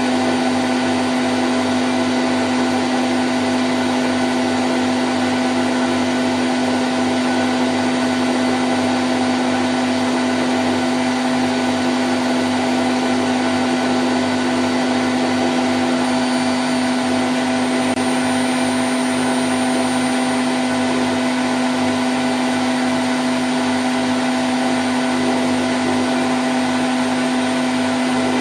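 Candy Grand O' F106 washing machine in its spin cycle at 1000 rpm: a steady whirring hum with one strong, constant low tone.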